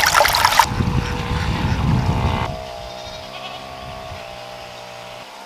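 Goat bleating, a held, wavering pitched call through the second half. Water trickles for the first second or so.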